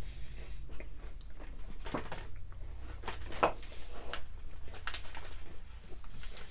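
Scattered short crunches, clicks and rustles of someone biting and chewing a crunchy fudge-striped cookie, over a low steady room hum.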